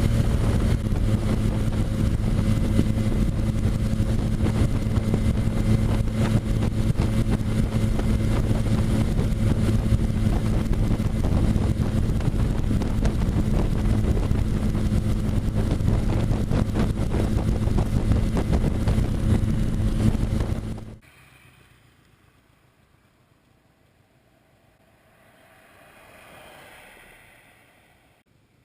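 Honda Rebel motorcycle engine running steadily at cruising speed, with wind buffeting the microphone. About 21 seconds in, the sound drops away abruptly to a faint hush, with a soft swell a few seconds later.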